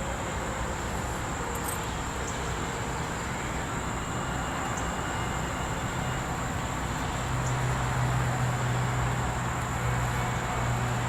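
Steady outdoor background: a continuous high-pitched insect drone over a wide rushing noise. A low hum comes in about six seconds in and grows slightly louder.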